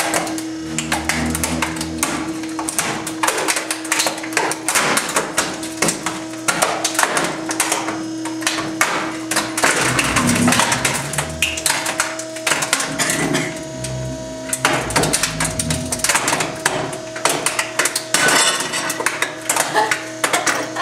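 Trash compactor crushing a microwave oven: a dense run of cracking and snapping as the casing and parts give way, over a steady motor hum that drops out for a few seconds midway and then returns.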